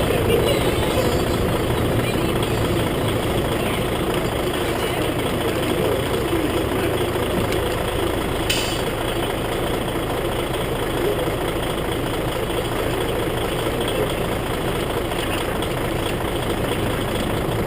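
Truck engine idling steadily, with a brief click about eight and a half seconds in.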